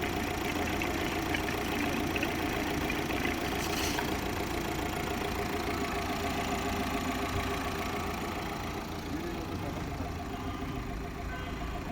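Tata Safari's 2.0-litre four-cylinder Kryotec turbo-diesel engine idling steadily, getting slightly quieter about eight seconds in.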